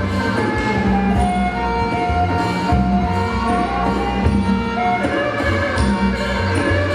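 Traditional Surin Khmer dance music played by an ensemble: a sustained melodic line, fiddle-like with harmonics, over a steady beat of drums and small percussion.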